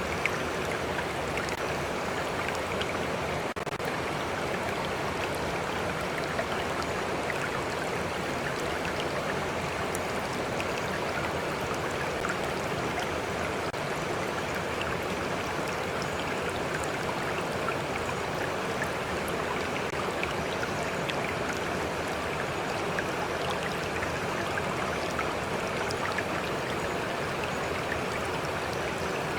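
Stream flowing steadily: a continuous, even rush of water with occasional small splashes and drips.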